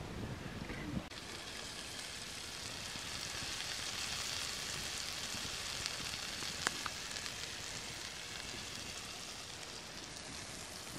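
Food frying in a cast iron pan over a campfire: a steady sizzling hiss with a couple of faint pops.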